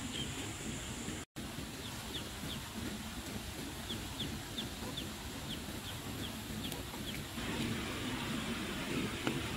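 Short, high, downward chirps from a bird, repeating two or three times a second over a steady outdoor background. A louder rustle of pumpkin leaves and stems being handled follows from about seven seconds in.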